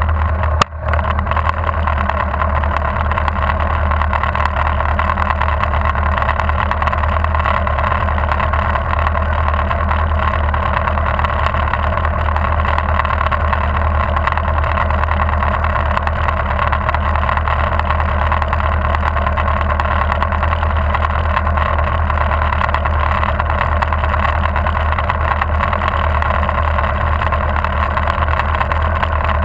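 Motorcycle engine idling steadily while the bike stands still, heard through a camera mounted on the bike; a single short knock sounds about a second in.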